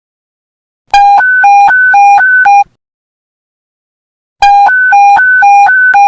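Police radio panic-button emergency alert tone: an electronic two-tone beep switching quickly back and forth between a low and a high pitch, played in two short bursts about three and a half seconds apart.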